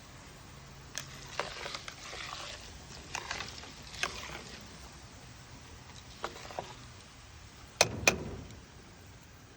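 Spoon stirring mixed bird seed into rendered pork lard in a pot: a series of short scraping, rustling strokes, then two sharp knocks in quick succession about eight seconds in, the loudest sounds here.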